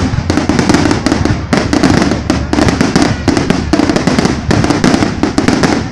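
Fireworks going off in rapid, overlapping bangs, many a second, merging into a continuous loud crackle.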